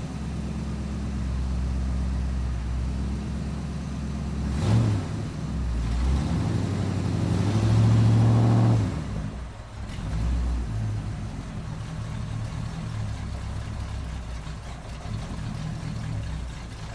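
A car engine, likely the Chevrolet Vega just named, running just after being started: it is blipped briefly about five seconds in, revved up rising to its loudest around eight seconds in, then drops back near ten seconds and runs steadily, fading away at the end.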